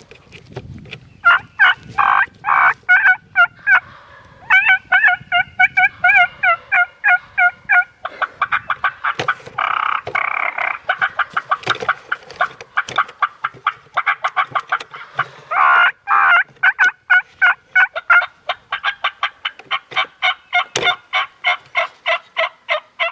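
Turkey yelping and cutting: long, loud runs of sharp, rapid notes, several a second, some breaking in pitch.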